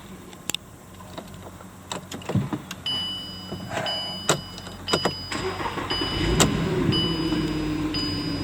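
A 2007 Volkswagen Touareg's 3.6 L V6 is cranked and starts about six seconds in, then flares and settles toward idle. Before it, a few sharp clicks, and a dashboard warning chime beeps steadily about once a second through the start.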